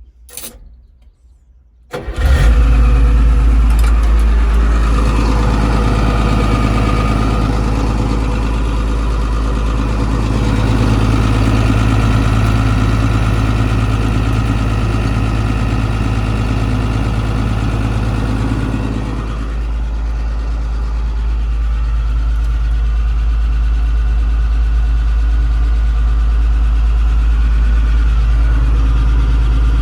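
Isuzu 6BD1 six-cylinder diesel of a long-abandoned Hitachi UH06-5 excavator catching and starting about two seconds in after a short click, then running steadily. It runs a little harder through the middle and settles back toward idle about two-thirds of the way through.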